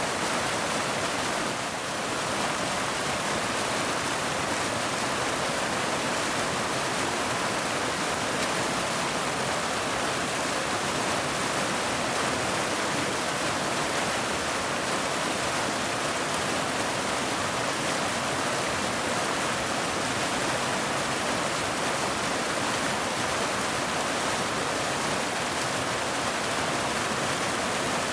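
Steady, even rain, a continuous hiss of falling water with no separate drops standing out.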